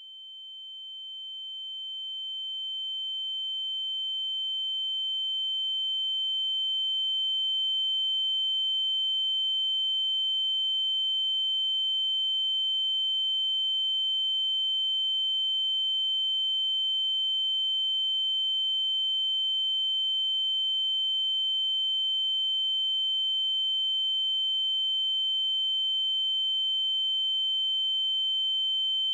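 Steady high-pitched sine tone with a fainter lower tone beneath it, swelling in over the first several seconds and then held unchanged.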